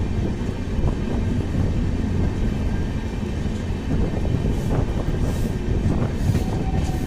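Passenger train running at speed, heard from on board: a steady low rumble of wheels on rails with irregular rattles and knocks, and a few short hissing gusts about two-thirds of the way through.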